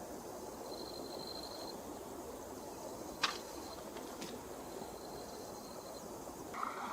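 Forest stream water flowing steadily. A thin, high, steady tone comes and goes twice over it, and there is one sharp click about three seconds in.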